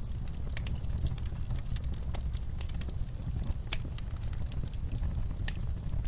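Wood fire crackling in a fireplace: irregular sharp pops and snaps over a steady low rumble of burning, with a louder snap a little past halfway.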